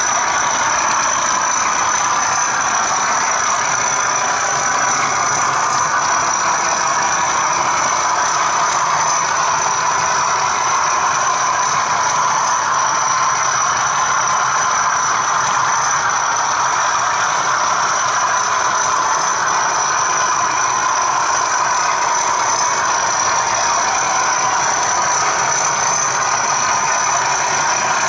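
Model train running: a Bachmann OO-gauge class 37 diesel locomotive's ESU sound decoder playing diesel engine sound through its small speaker, mixed with the rolling noise of the wagon carrying the camera on the track. The sound is steady, with a constant high whine over it.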